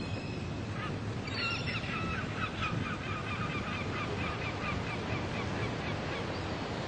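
A bird calling in a rapid series of short notes, about three or four a second, starting about a second in and stopping past the middle, over a steady wash of sea surf.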